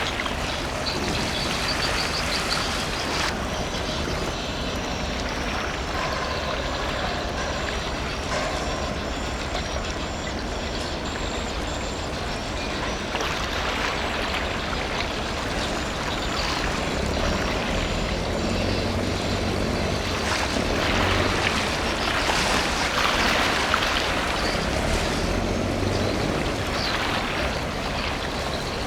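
Steady outdoor background noise of engines and passing traffic. A low engine hum comes in a little past halfway and fades near the end.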